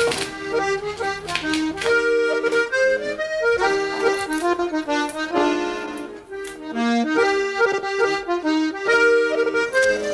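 Accordion playing a quick traditional Irish tune, a run of short melody notes over held chords.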